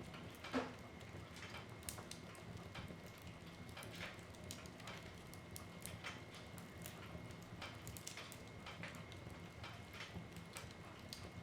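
Wood fire in a fireplace crackling: irregular small pops and snaps of burning wood, with one louder pop about half a second in.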